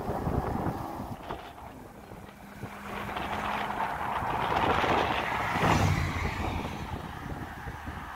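Chevrolet Camaro IROC-Z's V8 running as the car drives up to and past the camera. It grows louder to a peak about five to six seconds in, then fades as the car pulls away.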